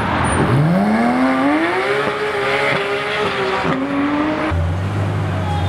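A car's engine accelerating hard: its pitch rises over the first couple of seconds and holds high, dips briefly just before four seconds in and climbs again, and in the last second gives way to a lower steady drone.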